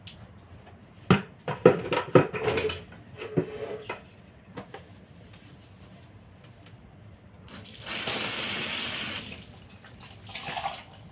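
Knocks and clatter of objects being handled, then a short rush of running water lasting about a second and a half, and a briefer splash of water near the end.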